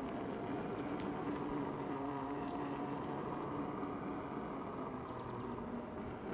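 A vehicle in motion: a steady hum with a faint held whine over an even rush of road noise.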